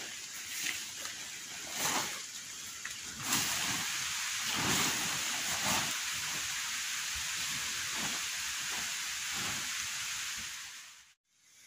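Steady hiss of heavy rain that gets louder about three seconds in, with a few soft low thuds mixed in. It cuts off abruptly near the end.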